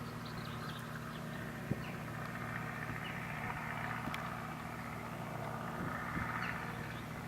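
New Holland tractor's diesel engine running steadily while pulling a plough, its note swelling a little in the middle and again near the end, with a few faint clicks.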